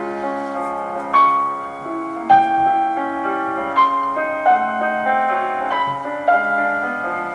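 Classical piano music: a melody over held chords, with a new note or chord struck about every second.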